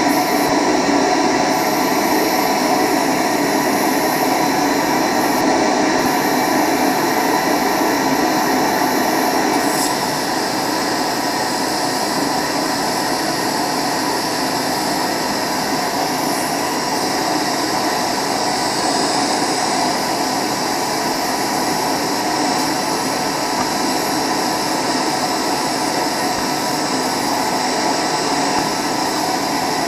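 Eureka Powermite vacuum cleaner running steadily, pulling air and lint through a party straw taped on as a narrow nozzle, to clear lint from a space heater's vent. Its pitch and loudness dip slightly about ten seconds in.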